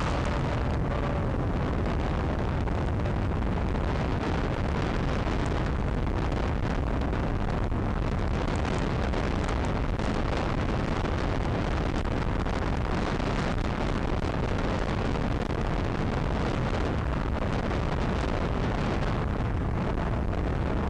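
Motorcycle running steadily at road speed, with wind rushing over the microphone as it rides.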